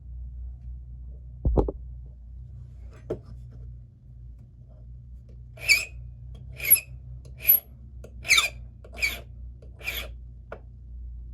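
A hand file rasping across a key blank in six even strokes, about one every 0.8 seconds, cutting down the positions where impressioning marks showed. A low thump comes about a second and a half in, and a small click follows.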